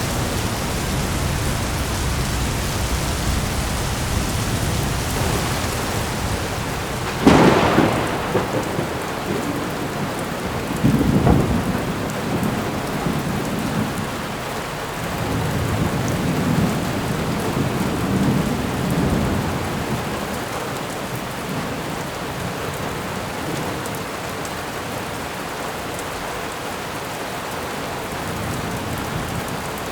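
Thunderstorm: steady rain throughout, with a sharp thunderclap about seven seconds in, a second crack about eleven seconds in, and low rolling thunder a little past the middle.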